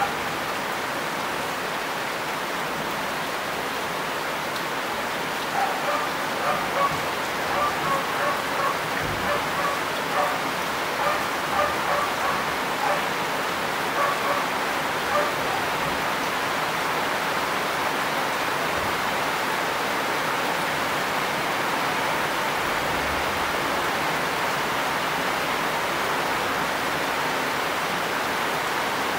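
Heavy rain falling steadily. From about five seconds in to about fifteen seconds in, a dog barks in a long string of short barks, about two a second, above the rain.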